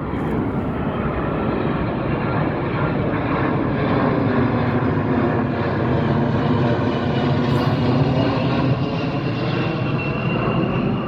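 Airplane flying low overhead, its engine noise building up and holding loud, then easing off a little near the end.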